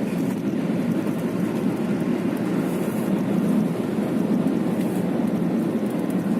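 Steady road and engine noise heard inside a car's cabin while it drives at high speed on the highway: an even, low rumble with no distinct events.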